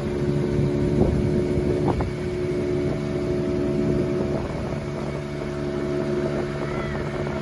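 A vehicle engine running at a steady speed, a constant even drone heard from on board.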